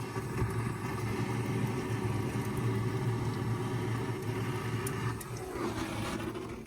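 A steady motor hum made of several even tones, which wavers and fades about five seconds in.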